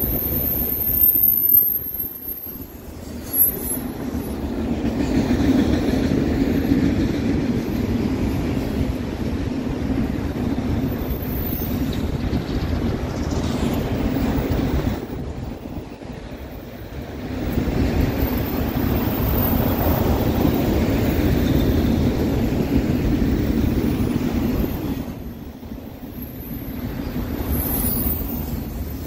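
Autorack cars of a CN freight train rolling past on the rails: a steady rumble of wheels on track that swells and dips as the cars go by, with a high-pitched wheel squeal coming and going.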